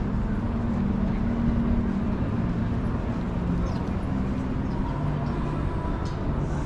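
City street traffic: vehicle engines running steadily with a low hum that shifts in pitch.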